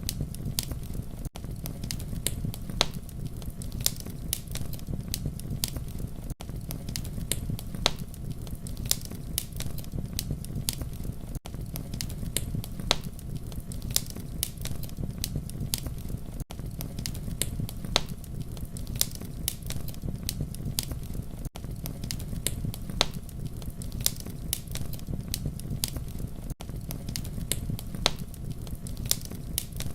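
Campfire crackling: many sharp pops and snaps over a steady low rumble of flames. The sound drops out for an instant about every five seconds.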